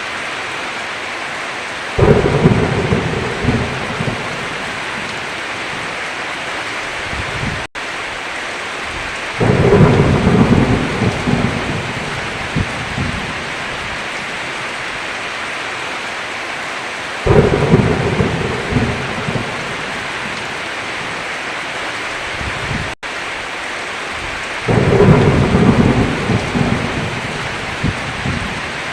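Heavy, steady rain with thunder: four sudden low thunderclaps, roughly every seven and a half seconds, each rumbling away over two or three seconds. The sound briefly cuts out twice.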